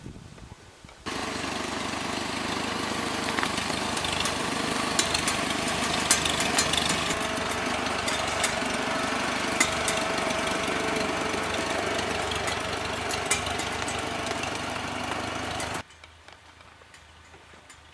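A vehicle's engine running steadily, with many scattered sharp clicks and rattles over it. It cuts in abruptly about a second in and cuts off abruptly near the end.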